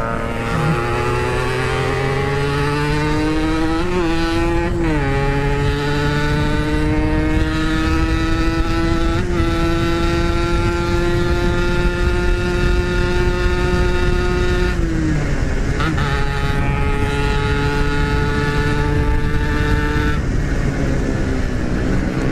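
Yamaha RX-King's single-cylinder two-stroke engine pulling hard at speed. Its pitch climbs, with two quick gear changes about four to five seconds in, holds high revs, drops off about fifteen seconds in, then runs steady again.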